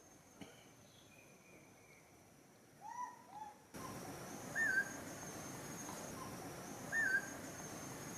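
Short whistled animal calls: two arching calls about three seconds in, then two brief warbling calls about four and a half and seven seconds in, over a steady high whine and a background hiss that grows louder partway through.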